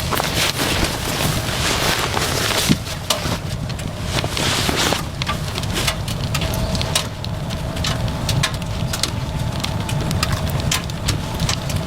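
Precipitation pattering against a car tent with many short sharp ticks, over a steady low wind rumble. A faint steady hum joins in about halfway through.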